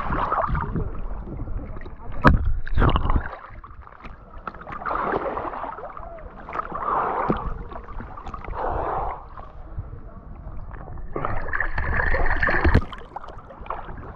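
Moving water splashing and churning around a whitewater kayak held in a stern stall, in uneven surges every second or two, with two heavier, deeper rushes about two seconds in and again near the end.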